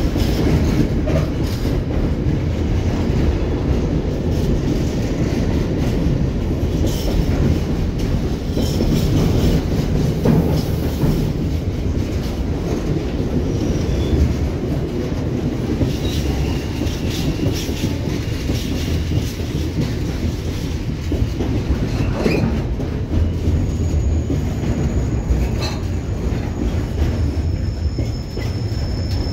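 Container freight train's wagons rolling past at close range: a steady heavy rumble with clicks of wheels over rail joints. A thin high squeal sets in near the end.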